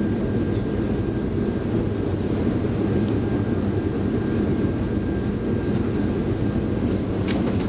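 Steady low rumble and hum inside a Taoyuan Airport MRT train car, with a faint steady high whine and a couple of sharp clicks near the end.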